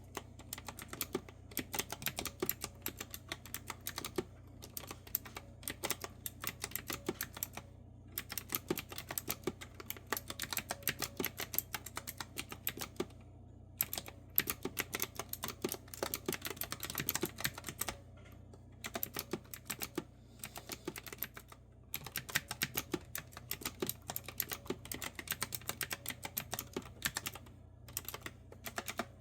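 Continuous typing on a clicky mechanical keyboard with round retro-style keycaps: rapid runs of crisp keystrokes, broken every few seconds by short pauses.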